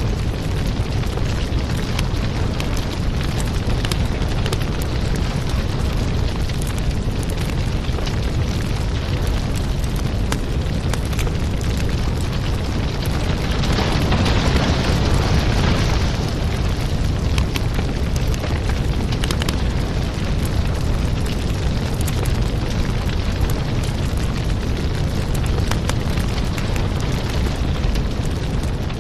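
Wood fire crackling in a fireplace: a steady low rumble with frequent sharp pops and crackles, and a brief hissing swell about halfway through.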